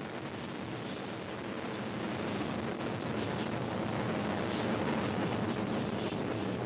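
Delta IV Heavy's three RS-68 engines heard from the ground during ascent: a steady rushing noise with crackle, slowly growing louder.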